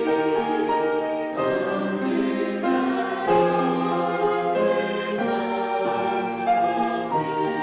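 Church choir singing sustained, held chords, with the notes moving about once a second.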